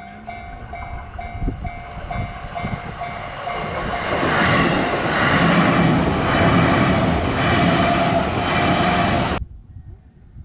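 Railway level-crossing warning bell dinging about twice a second as a train passes. The train's rushing noise builds to the loudest part, with a regular rhythmic clatter, then cuts off suddenly near the end.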